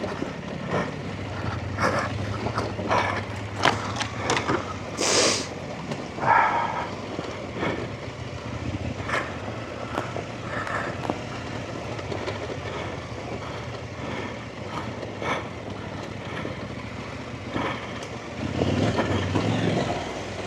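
Off-road trail motorcycle engine running as the bike rides a rough lane, with frequent sharp knocks and clatter from the bike over rocks, and a short hiss about five seconds in. The engine swells louder near the end.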